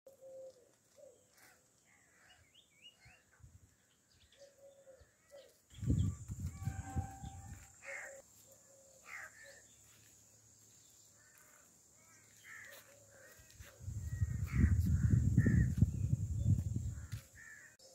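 Birds calling in short, scattered calls, with two spells of loud low rumbling noise, about six seconds in and again from about fourteen seconds.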